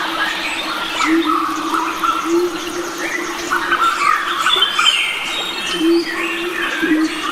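A chorus of wild forest birds, many overlapping chirps, trills and whistles from several species at once. Underneath runs a steady low drone that swells upward briefly every second or so.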